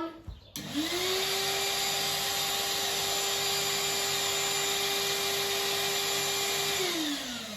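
Numatic WV380-2 wet vacuum's motor switched on: it spins up within about half a second to a steady whine with rushing air, showing that the motor still works. Near the end it is switched off and winds down, its pitch falling.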